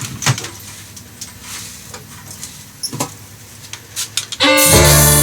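Several sharp knocks from a pneumatic nail gun firing into wooden boards, spaced irregularly, with three in quick succession near the end. Loud blues-style music with harmonica and guitar comes in about four and a half seconds in.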